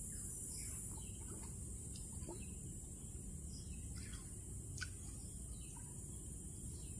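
Faint, scattered bird chirps over a steady low background rumble, with one sharper chirp about five seconds in.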